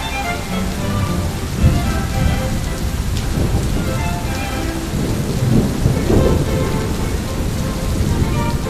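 Thunder rumbling over steady rain, with a louder rumble about a second and a half in and a longer one around six seconds in.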